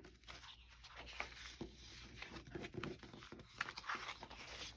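Paper rustling and crinkling as the pages and loose cut pieces of an old, falling-apart paper doll book are handled, with soft scattered crackles.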